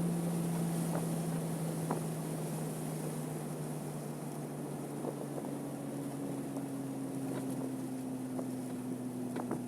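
Porsche 987.2 Cayman S's 3.4-litre flat-six running at steady, moderate revs and slowly easing off, with wind and road noise in the cabin and a few faint clicks.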